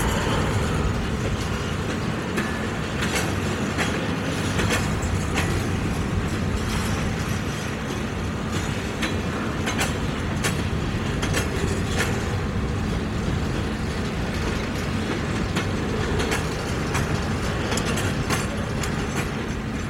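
Train of covered hopper cars rolling past at close range: a steady rumble of steel wheels on rail, broken by frequent irregular sharp clacks as the wheels run over the track.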